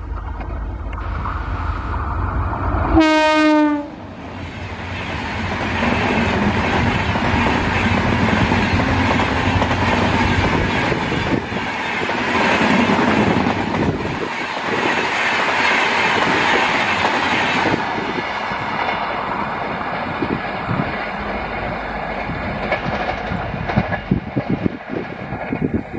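Electric locomotive sounding one short horn blast about three seconds in, then a long rake of AC double-decker coaches running past with loud, steady rushing noise and wheels clattering over the rail joints. After about 18 seconds the sound drops to a quieter rumble with sharper clicks.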